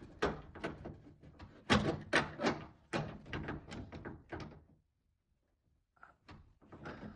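A run of sharp knocks and clanks, a plumbing wrench and metal fittings being handled while the washing machine's water inlet is reassembled. They break off for about a second and start again near the end.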